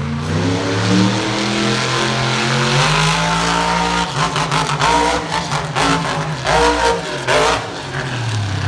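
Monster truck engine revving hard. Its pitch climbs and drops in long pulls, then comes in quick throttle blips over the last few seconds.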